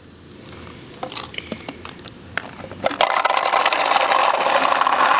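Paintballs being poured into a paintball marker's hopper: a few handling clicks, then from about three seconds in a loud, dense rattle of balls cascading in.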